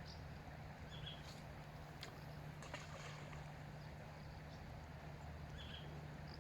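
Faint steady low hum under a noisy background, with two short high chirps and a few light clicks.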